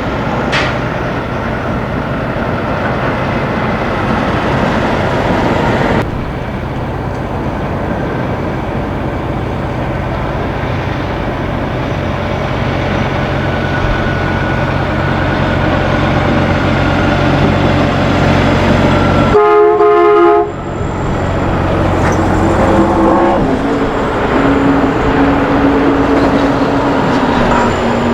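Diesel semi trucks running past with steady engine and road noise. About two-thirds of the way through comes a loud horn blast of several tones at once, lasting about a second. Engine tones rise and fall again near the end.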